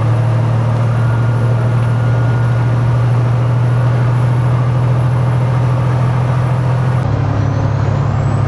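Semi truck's diesel engine droning steadily at highway speed, heard inside the cab, with road and wind noise.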